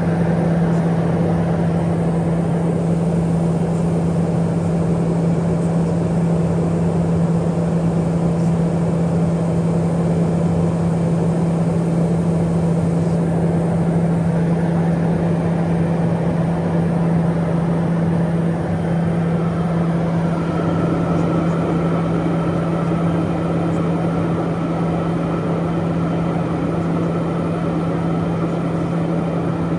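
Cockpit noise of a Piper M600's Pratt & Whitney PT6A turboprop and propeller in cruise flight: a steady, loud drone with a strong low hum over dense rushing noise. A faint higher tone joins about two-thirds of the way through.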